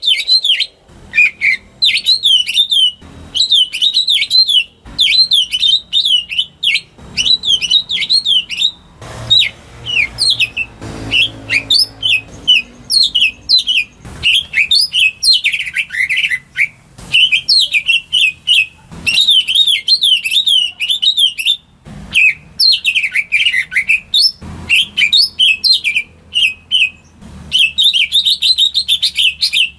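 Cucak ijo (green leafbird) singing a fast, varied song of high whistled and trilled notes, in phrases of a few seconds broken by short pauses.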